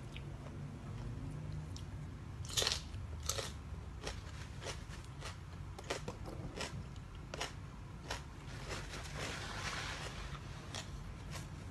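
Close-up eating: a person biting into and chewing crunchy food, with a dozen or so sharp, irregular crunches and a longer stretch of steady crunching about eight seconds in.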